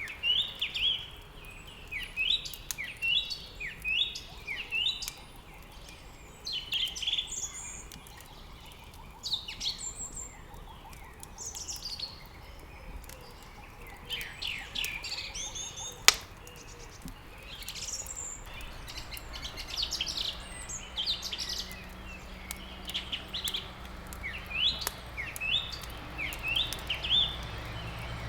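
Several songbirds chirping and twittering in quick, overlapping phrases throughout. A single sharp crack sounds about halfway through, the loudest moment, and a low steady hum comes in soon after.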